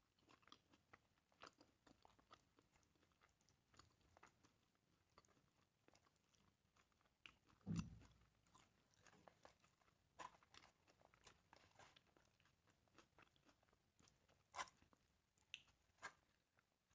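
Faint close-up eating sounds: chewing and mouth smacks on grilled chicken, with fingers tearing meat in a foil tray. A dull thump about eight seconds in is the loudest sound.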